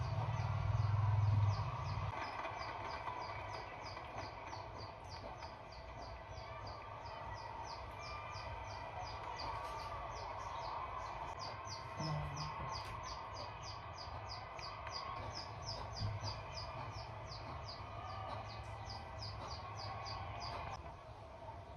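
A bird chirping over and over in an even rhythm, about three short high chirps a second, over a steady low hum.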